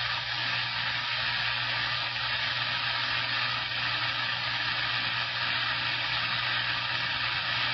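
CB radio receiver giving out a steady loud hiss of open-channel static and band noise between transmissions, with a low steady hum underneath.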